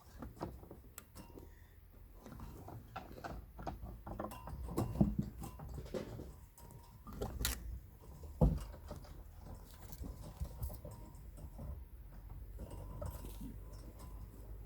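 Hands at work on fence materials: scattered clicks, scrapes and light knocks, with sharper knocks about five, seven and a half and eight and a half seconds in.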